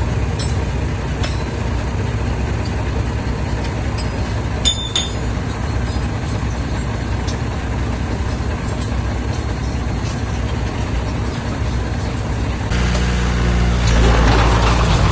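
Heavy diesel engine of earthmoving machinery running steadily, with a few metallic clinks about five seconds in. Near the end the engine works harder and grows louder, joined by a rougher grinding noise.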